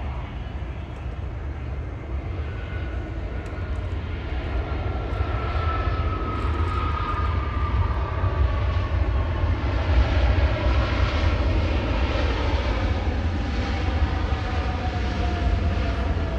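Jet airliner passing close: a deep engine rumble with a whine that falls slowly and steadily in pitch as the aircraft goes by, growing louder toward a peak about ten seconds in.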